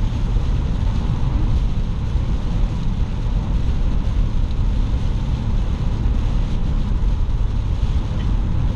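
Car driving at highway speed through heavy hurricane rain: a steady low rumble of road and wind noise with a hiss of rain and spray over it.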